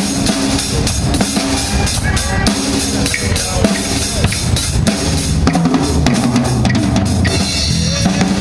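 Live band music with the drum kit to the fore: a steady beat of bass drum, snare and rimshots over a bass line.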